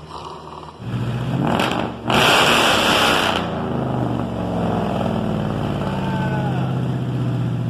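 Hemi V8 engine of a 1972 Dodge pickup running. There is a loud surge for about a second, roughly two seconds in, then it settles back to a steady run.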